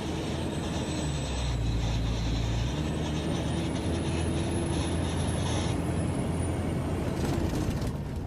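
A steady engine running, with a low hum and a thin high whine that rises slightly around the middle and falls again near the end.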